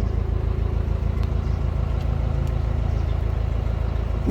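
Narrowboat's diesel engine running steadily, an even low beat with a few faint ticks above it.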